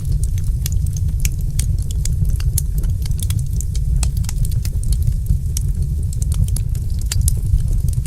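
Wood fire in a fireplace crackling, with frequent irregular sharp snaps and pops over a steady low rumble of the flames.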